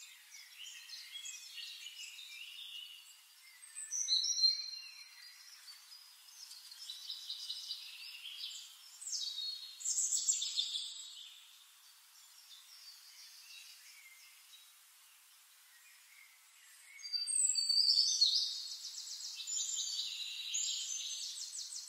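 Birds singing and calling in high-pitched chirps and rapid trills, over a faint hiss. Louder bursts come about four, ten and eighteen seconds in.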